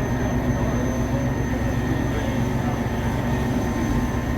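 EMD F40PHM-2 diesel locomotive running, its 16-cylinder EMD 645 engine making a steady low drone, heard from the open coach right behind it.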